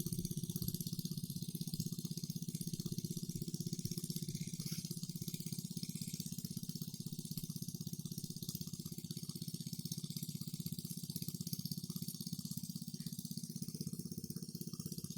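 A small engine running steadily at an even, fast beat, with a steady hiss above it.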